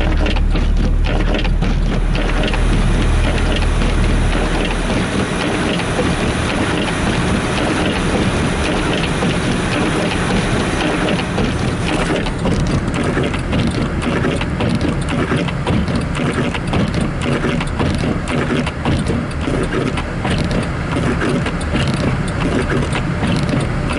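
Windshield wipers running at full speed inside a car's cabin, the blades chattering and scraping over a snow- and ice-crusted windshield, with steady road and engine noise underneath. The wiper switch is faulty: the wipers run at full speed or not at all. A low hum drops away about five seconds in.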